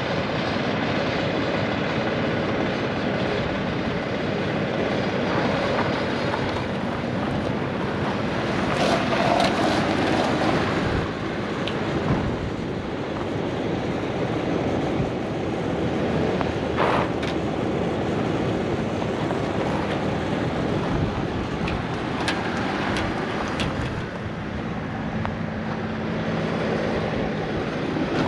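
Mini truck's small engine running steadily, a dense mechanical noise with a few brief clicks and knocks along the way.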